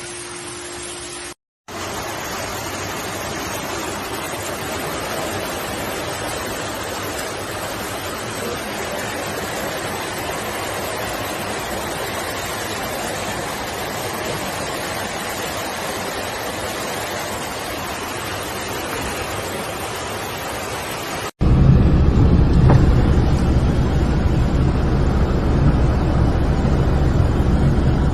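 Steady, even rushing hiss of water during heavy rain and flooding. After a sudden cut, a louder, deeper rumbling noise takes over for the last several seconds.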